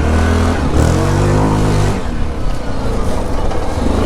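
Yamaha Grizzly 700 ATV's single-cylinder four-stroke engine running under throttle while being ridden, its pitch climbing from about a second in and falling away near two seconds, then varying with the throttle.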